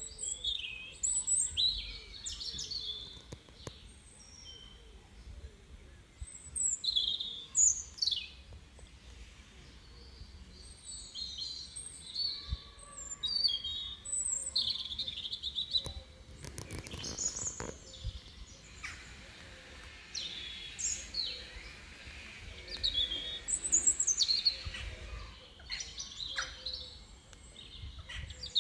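Small birds chirping and calling: many short, high calls in irregular runs, with a quieter spell about ten seconds in.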